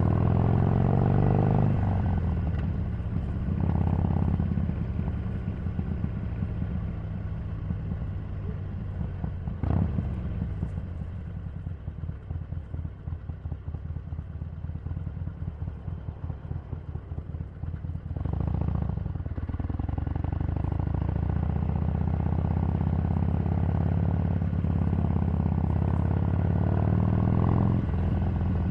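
Harley-Davidson 883's V-twin engine on the move: revs fall as it slows at the start, then it idles with an uneven, pulsing chug for several seconds past the middle. It pulls away with rising revs, runs steadily, and the revs drop again near the end.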